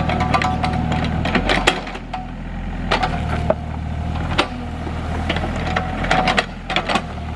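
Excavator's diesel engine running under load while wood and brush crack and splinter, with many sharp snaps scattered through.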